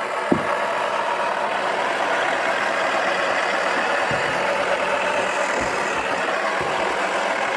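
Toy washing machine running: a steady motor whir, with a few short low knocks.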